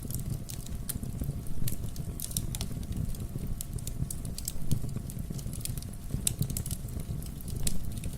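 Wood fire crackling in a fireplace: frequent irregular snaps and pops over a low, steady rumble of the burning fire, with a few louder pops.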